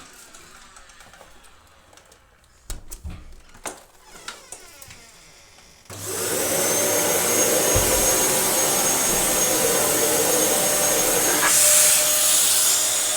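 Dyson DC07 Allergy bagless upright vacuum cleaner switched on about halfway through, its motor starting suddenly and then running with a loud steady whoosh and a faint high whistle. Before it starts there are a few knocks and clicks of the machine being handled.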